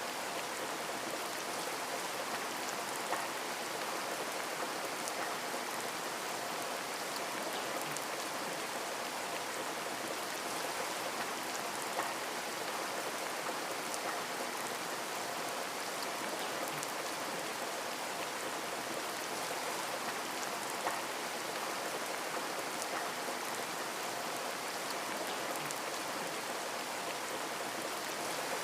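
Steady rain falling on a window, a constant hiss with scattered individual drops ticking against the glass.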